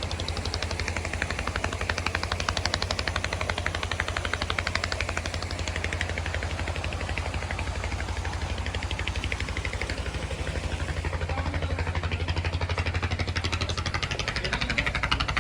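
Motorcycle engine running with a rapid, even pulsing.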